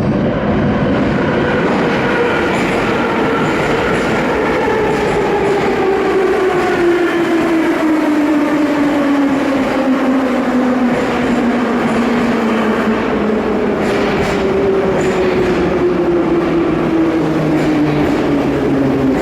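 Moscow metro noise at Barrikadnaya station: a loud, steady creaking squeal over the rumble of a train, whose pitch slides slowly down for about ten seconds. A second squeal starts higher about two-thirds of the way in and falls again.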